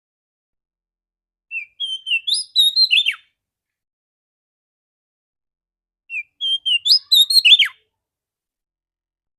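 Female Oriental magpie-robin (kacer) singing two short phrases of clear whistled notes, about four seconds apart, each phrase ending in a quick falling note.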